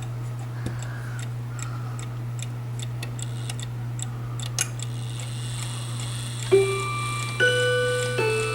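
Clock ticking steadily, then about six and a half seconds in it starts to chime: three ringing notes struck one after another, each sustaining under the next. A steady low hum runs underneath.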